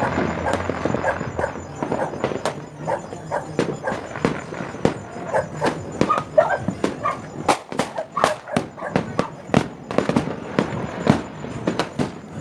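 Fireworks and firecrackers going off in a rapid, irregular string of short sharp bangs, thickest about eight seconds in.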